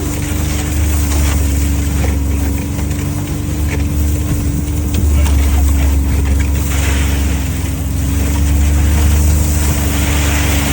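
An engine running steadily, with a constant low hum and an even tone that hardly changes.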